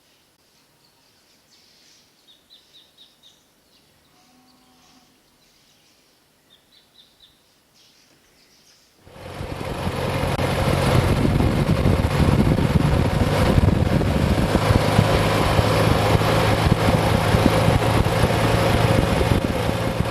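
Small birds chirping in short trills over quiet surroundings. About nine seconds in, loud steady riding noise cuts in abruptly: wind rush over a low motorcycle engine drone at road speed.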